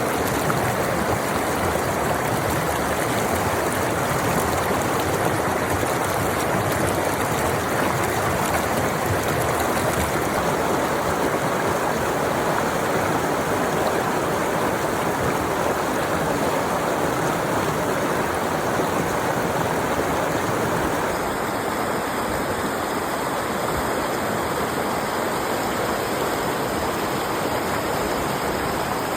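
Steady rush of a fast-flowing stream, an even wash of water noise, dipping slightly in level about two-thirds of the way through.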